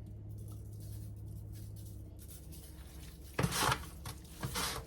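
A steady low hum, then two short rustling handling noises about three and a half and four and a half seconds in, as the catfish is being seasoned.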